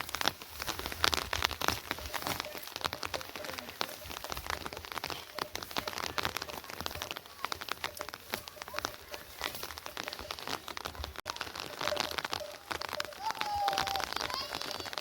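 Rain falling, a dense run of separate drops hitting a surface. A short tonal call is heard near the end.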